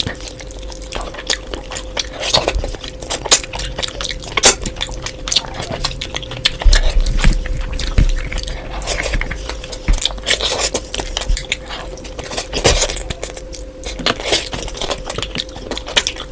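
Close-up eating sounds: wet chewing and smacking of mouthfuls of meat and fish curry, with irregular clicks and clinks against a plate, over a faint steady hum.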